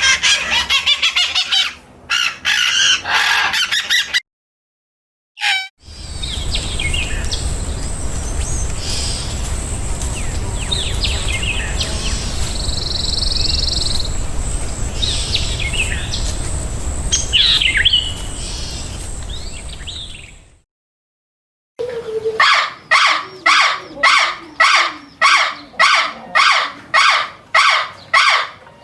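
Birds calling in several short spliced clips: quick chirps first, then scattered calls over a low outdoor rumble, and near the end one bird repeating a call about twice a second.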